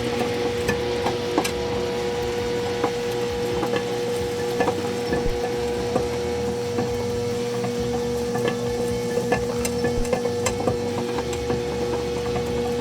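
Microwave oven running with a steady hum, with irregular sharp crackles and ticks, a few a second, from the cornhole bags heating inside it.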